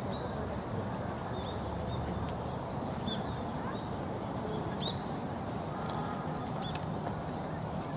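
Birds chirping, many short high calls scattered through, over a steady background hiss of outdoor ambience.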